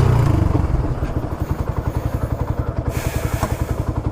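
Motorcycle engine idling, its exhaust giving an even, rapid beat of pulses that slowly fades away.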